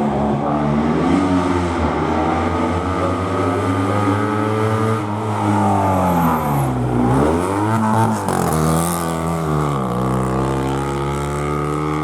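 Historic rally car engine running hard through a hairpin. Its pitch drops as the car slows, then climbs again as it accelerates away, and does so twice.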